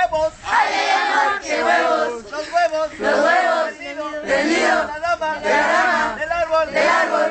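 A group of voices loudly chanting and shout-singing a call-and-response campfire song.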